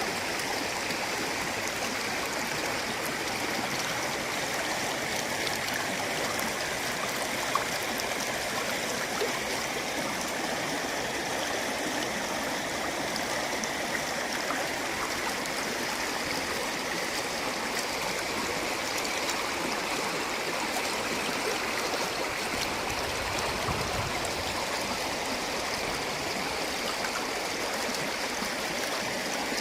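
River swollen after heavy rain, its water flowing with a steady, even rush.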